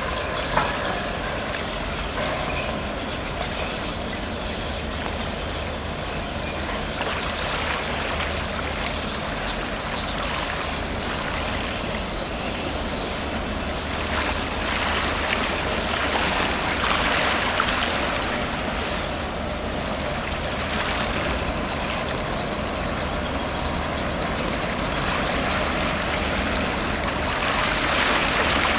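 A container ship passing: a steady low engine drone under a rushing wash of water that swells and fades every few seconds.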